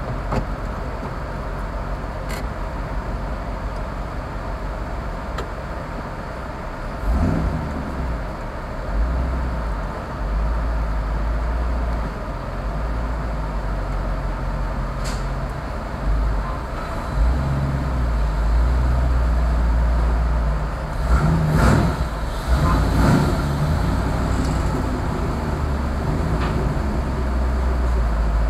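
Lamborghini Countach replica's engine running at low speed, heard from inside the cabin as a low steady drone. It swells briefly about seven seconds in and again in a few quick bursts past the twenty-second mark.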